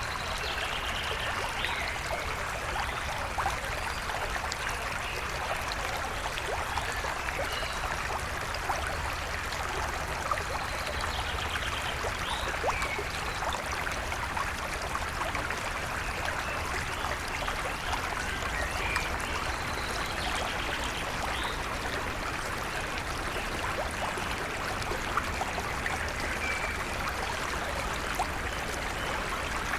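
A stream flowing steadily, a continuous rush of water, with short bird calls scattered through it every few seconds.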